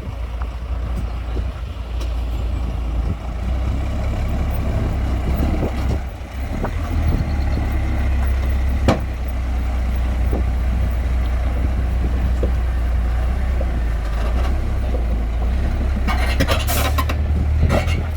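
Heavy diesel earthmoving machinery running with a steady low rumble, with scattered clanks and knocks and a short hiss near the end.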